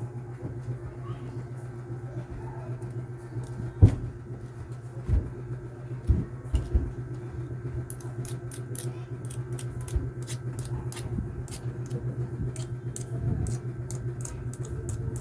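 Small tools and parts being handled on a workbench over a steady low hum: a few knocks, then a run of light clicks, several a second, in the second half.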